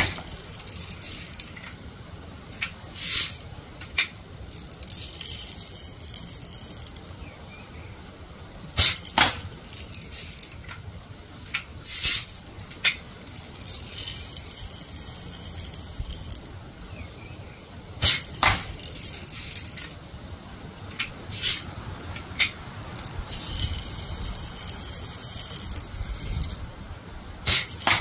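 An air rifle being worked between shots: sharp metallic clicks and rattles that come in groups, each group followed by a couple of seconds of high hissing. The cycle repeats three times, about nine seconds apart.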